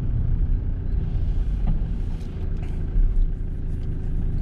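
1994 Mitsubishi Delica L400's 2.8-litre turbo diesel engine running under way with road and tyre noise, heard from inside the cabin: a steady low rumble, with a brief louder bump about three seconds in.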